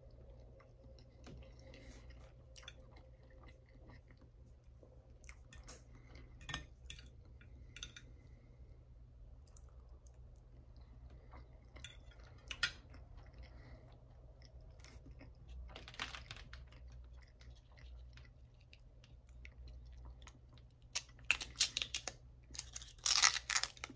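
Close-miked chewing of waffle and hash browns, with scattered clicks of a metal fork on a glass plate. Near the end a small plastic condiment packet is crinkled and torn open in a quick run of loud crackles.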